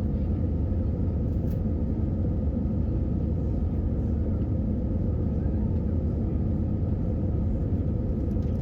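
Steady low vehicle rumble with a faint steady hum above it.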